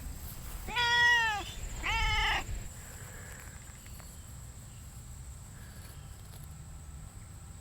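Domestic cat meowing twice, two drawn-out meows about a second apart, each rising then falling in pitch, the first the louder.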